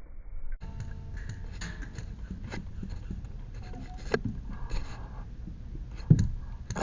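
Music cuts off about half a second in. Then comes rustling and handling noise from an airsoft player moving with their gear, with scattered clicks and knocks and one louder thump about six seconds in.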